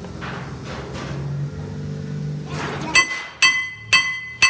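Hammer blows on steel: four sharp strikes about half a second apart in the last part, each leaving a clear metallic ring. A low steady hum runs beneath before the blows start.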